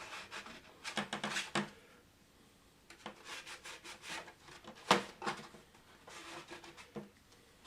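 Rubbing and scraping on 3D-printed plastic model parts as excess glue and accelerator are wiped off, in short flurries of quick strokes, with a sharp click about five seconds in.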